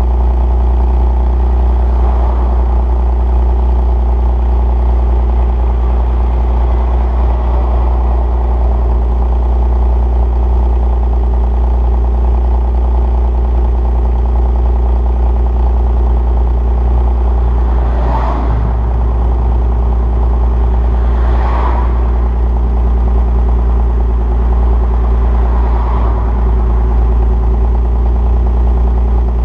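2002 Nissan Maxima's 3.5 L VQ35DE V6, fitted with equal-length headers, a stock cat and a straight pipe with no resonator, idling steadily through the exhaust after a cold start. There are three short flares of sound in the last half.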